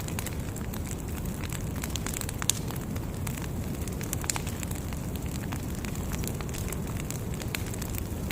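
Large bonfire burning: a steady low rush of flames with scattered sharp pops and crackles, the loudest pop about two and a half seconds in.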